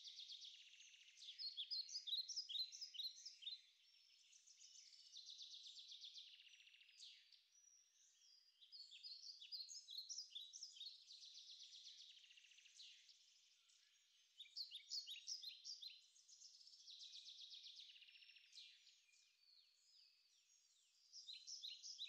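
Faint birdsong: songbirds singing in repeated high phrases every few seconds, some a fast trill, others a quick run of short sharp notes.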